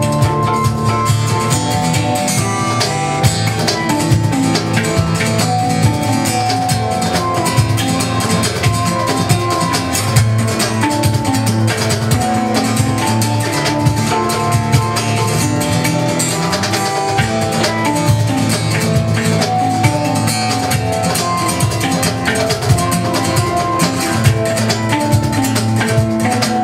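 A live band playing an instrumental: guitar over a steady drum-kit beat.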